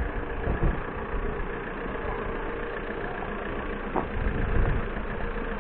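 Car engine idling, a steady hum with low rumble.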